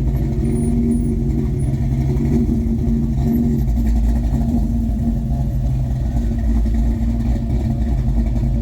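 A car engine idling steadily close by, a low, even running sound that holds without revving.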